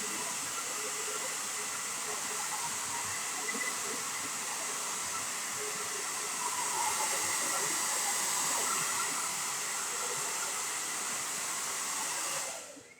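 Hair dryer blowing steadily, then switched off near the end.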